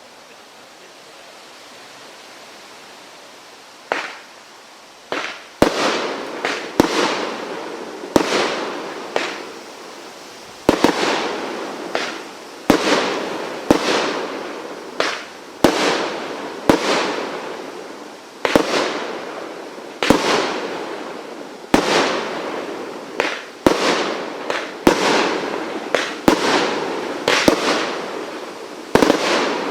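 Dragon's Head firework firing a string of sharp bangs. After a quiet few seconds there is a first bang, then they come roughly once a second, each with a short fading tail.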